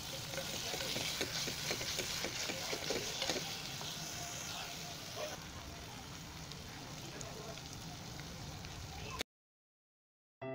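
Chopped vegetables sizzling as they fry in a pressure cooker, stirred with a spatula that scrapes and clicks against the pot, busiest in the first half. The sound cuts off abruptly to silence about nine seconds in.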